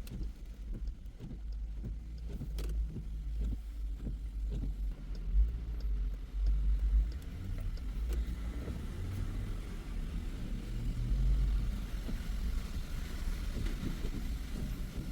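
Car driving along: a steady low rumble of road and engine noise, with a few scattered sharp ticks.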